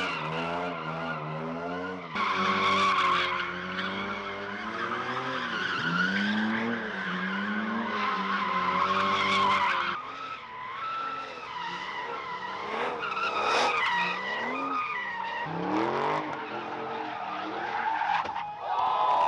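Car tyres squealing against pavement, a long wavering screech that rises and falls in pitch as the wheels spin and slide, with the engine running under it.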